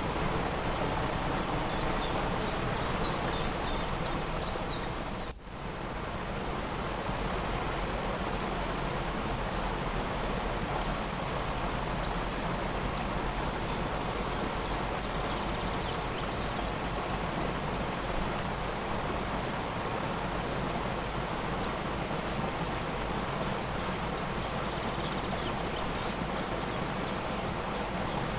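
Waterfall rushing steadily, dipping briefly about five seconds in. Over it, a small songbird gives rapid high chirps early on and again through the second half.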